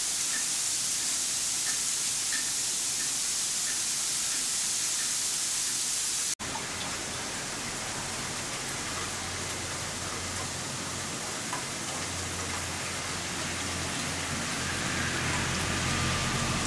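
Steady hiss of a winter storm, sleet and wind, with a few faint ticks. It breaks off abruptly for an instant about six seconds in. After that a low steady hum joins the hiss.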